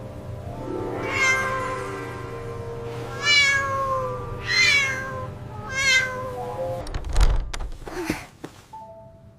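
A kitten meowing four times, high-pitched calls about a second apart, over soft background music. A low thump follows about seven seconds in, then a few sharp clicks.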